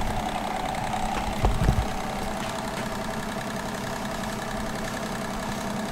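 McCulloch Pro Mac 10-10 two-stroke chainsaw engine idling steadily, with a brief low thump about a second and a half in.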